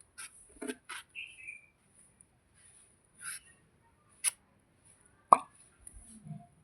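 Several short, sharp clicks and rustles, the loudest about five seconds in, over faint high-pitched bird chirping.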